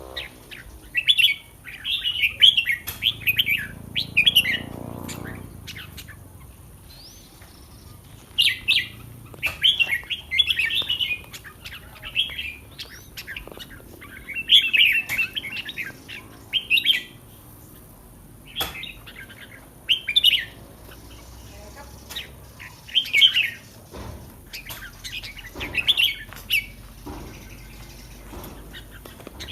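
Red-whiskered bulbul singing short, loud warbling phrases, repeated every one to three seconds with brief pauses between.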